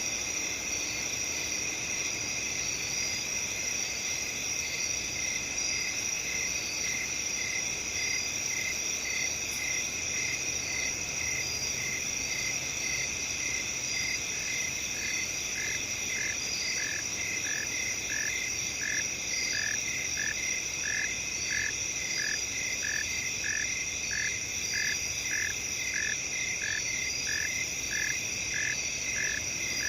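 A steady night chorus of crickets and other insects trilling, with evenly spaced chirps about two a second. About halfway through, a second, lower pulsing call joins in at the same rhythm.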